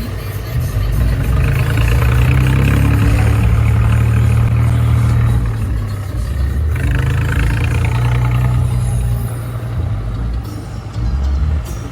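Tractor diesel engine running loudly, its note rising and falling.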